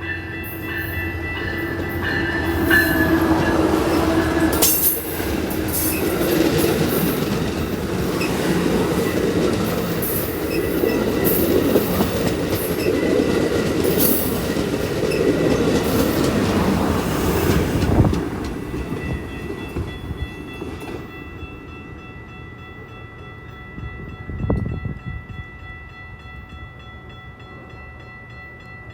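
A train passing close by: a loud rumble of cars on the rails for about fifteen seconds, with the horn sounding during the first few seconds. It fades away around twenty seconds in, leaving steady high tones, and a short thump comes near the end.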